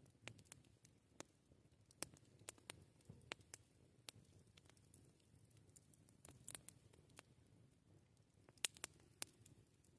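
Campfire crackling faintly: irregular sharp pops and snaps from burning wood, with a louder pop near the end.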